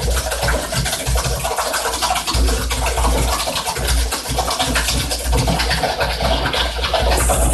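Wet concrete being poured and scraped into a foundation form, a continuous grainy rasping over a steady low hum.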